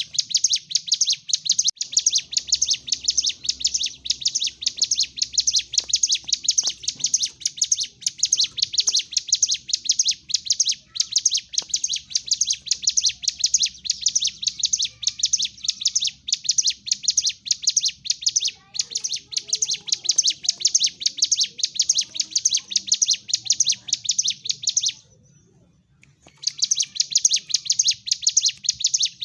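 Ciblek gunung, a prinia, singing its aggressive 'fight' song. It is a fast, unbroken chatter of high chirps that stops for about a second and a half near the end, then starts again.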